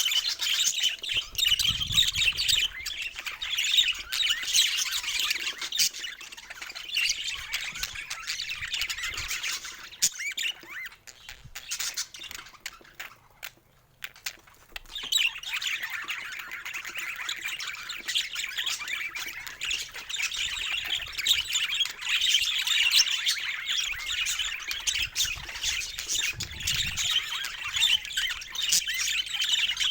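Budgerigars chirping and chattering in a dense, continuous stream of high squawks and warbles, dying away for a few seconds about halfway through and then starting up again.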